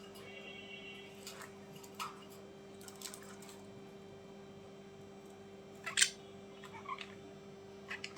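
A few short, scattered animal calls, the loudest about six seconds in, over a steady low electrical hum.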